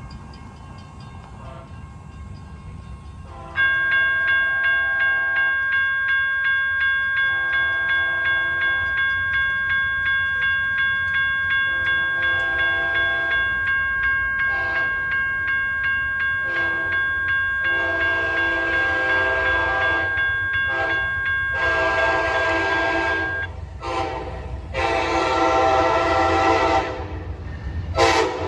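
A railroad grade-crossing bell starts ringing suddenly about three and a half seconds in, pulsing steadily about twice a second. An approaching locomotive then sounds its multi-chime horn in a series of blasts, some short and some long, which grow louder toward the end.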